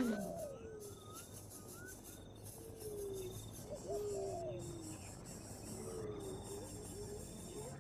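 Birds calling: several low, drawn-out calls that slide down in pitch, repeated every second or two, with a quick run of short rising peeps in the first two seconds. A faint, steady insect-like chirping sits behind them.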